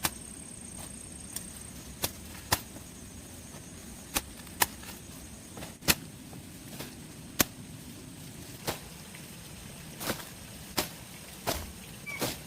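A string of sharp, irregular knocks and taps, about a dozen, some louder than others, over a faint steady background hiss.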